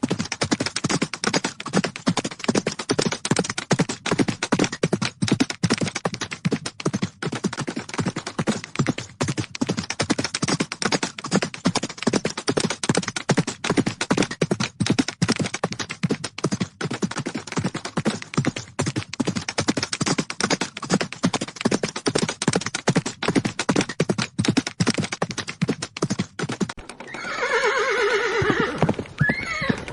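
Hooves of galloping horses drumming in a fast, continuous run of beats. Near the end a horse gives a long whinny over the hoofbeats.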